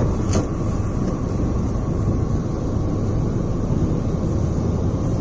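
Steady roar of storm wind buffeting the microphone over a rough, surging sea, heaviest in the low rumble.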